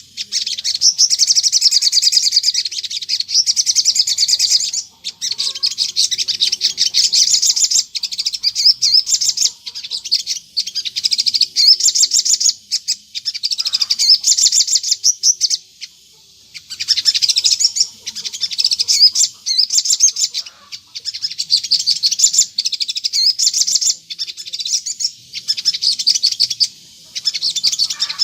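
Crimson sunbird (sogon) singing vigorously: rapid, high-pitched twittering in phrases of a few seconds, broken by short pauses.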